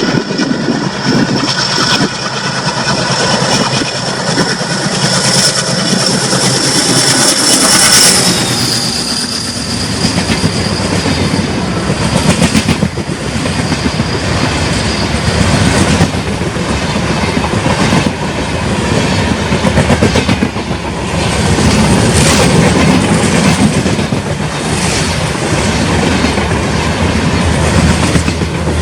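A diesel-hauled passenger train runs close by. A steady high-pitched whine lasts about the first eight seconds, then the coaches' wheels clatter over rail joints in a rhythmic clickety-clack.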